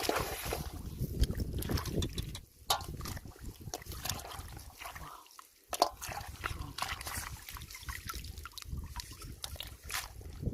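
Shallow water sloshing and trickling, with irregular small splashes and clicks, a sharp splash just before the middle.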